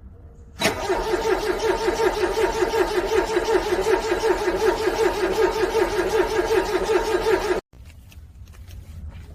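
Car engine cranking on its starter motor in the cold, about five or six compression beats a second over a steady starter whine, without catching. It goes for about seven seconds, then cuts off suddenly.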